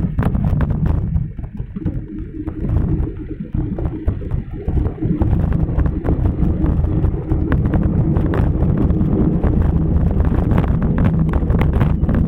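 Wind buffeting a moving microphone as a low, steady rumble, with frequent small clicks and rattles over it. It grows louder and more even about halfway through.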